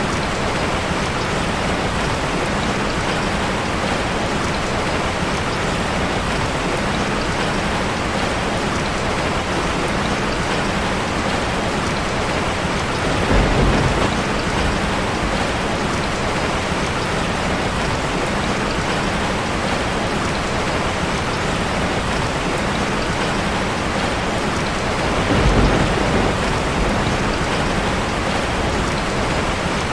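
Steady heavy rain drumming on a metal roof: a dense, even hiss. Two brief louder, deeper surges come about 13 seconds in and again about 25 seconds in.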